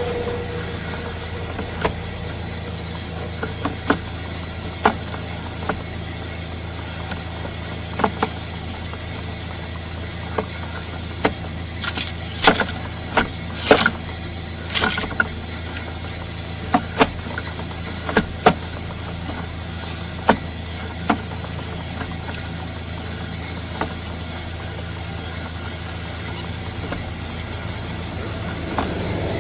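A steady low hum with irregular sharp clicks and knocks scattered through it; the loudest knocks bunch together about 12 to 15 seconds in.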